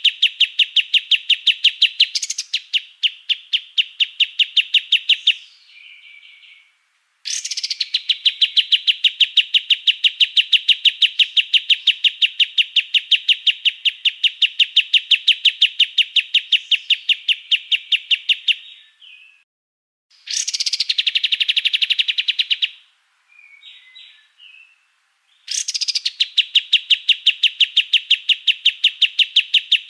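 Songbird delivering the harsh, rapid-fire song known to bird keepers as 'tembakan kasar': long runs of fast, evenly repeated sharp notes lasting several seconds each, broken by short pauses. A shorter, denser burst comes about two-thirds of the way through.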